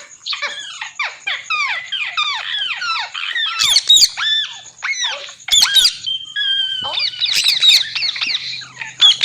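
Green parrot calling: a quick run of short, falling chirps over the first few seconds, then louder harsh squawks mixed with higher calls.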